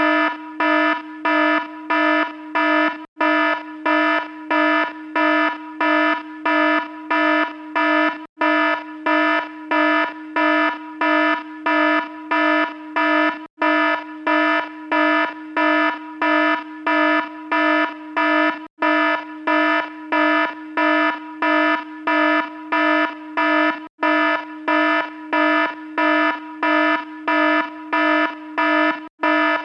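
Electronic alarm sounding a buzzy, harsh beep about twice a second, over and over without pause, broken only by a brief gap every five seconds or so.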